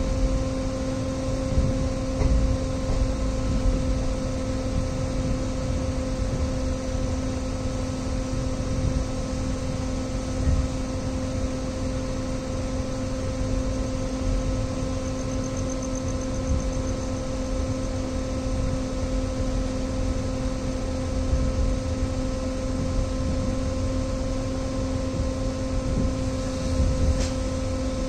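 Steady running noise inside a moving passenger train: a low rumble from the wheels on the track under a constant droning hum.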